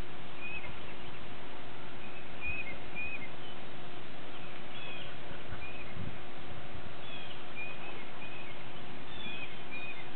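Small birds chirping in short, high notes, one or two at a time every second or so, over a steady outdoor background hiss.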